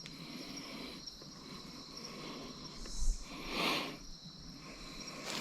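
Insects calling steadily in high, thin tones, with two short rustling noises about three seconds in.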